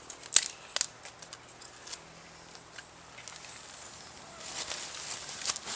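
Small campfire of bamboo and sticks crackling, with two sharp pops in the first second, scattered lighter snaps, and a soft hissing rush near the end.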